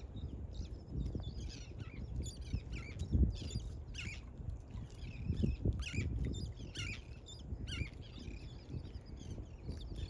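Small birds chirping in quick, irregular calls over a low, uneven rumble.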